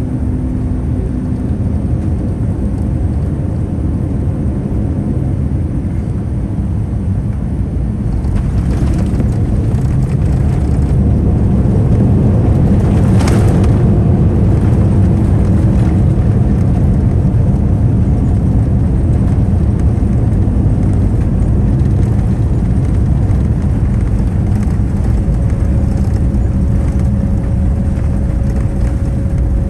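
Boeing 787-9 cabin noise heard from a forward window seat during the arrival: a steady low rumble of engines and airflow that swells about eight seconds in and stays louder, with one sharp knock about thirteen seconds in.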